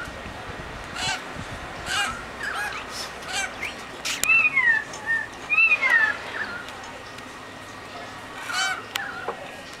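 Several wild birds calling in an Australian eucalypt forest, with short, varied calls, some of them cat-like or crow-like. Clear falling whistles come around the middle, and two sharp cracks sound, one about four seconds in and one near the end.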